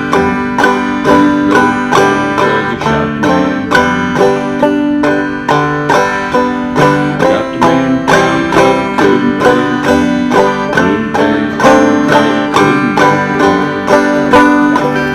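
Instrumental banjo tune, a steady stream of bright plucked notes in a bluegrass or old-time style, with what may be a guitar underneath.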